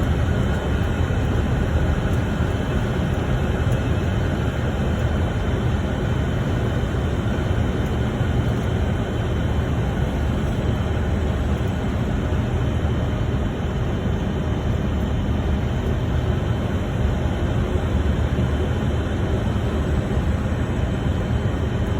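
Steady cockpit noise of a Boeing 747-400 on final approach: a constant rush of airflow over a deep engine rumble, with a faint steady high tone.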